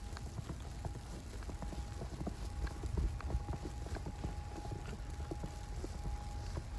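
Footsteps crunching in snow, many short steps in a quick, uneven rhythm, over a low wind rumble on the microphone and a faint steady hum.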